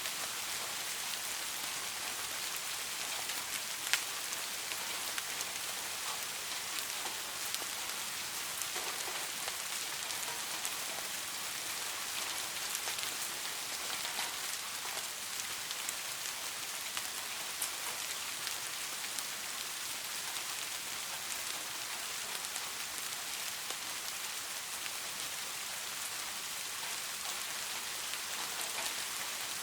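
Steady rain falling, an even hiss with scattered drop ticks and one sharper tick about four seconds in.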